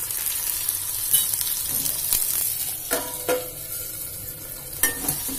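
Green peas, onion and garlic sizzling in hot oil in a steel kadhai, with a metal spoon clinking and scraping against the pan as they are stirred. A steel plate is set over the kadhai as a lid about three seconds in with a ringing clink, after which the sizzle is muffled.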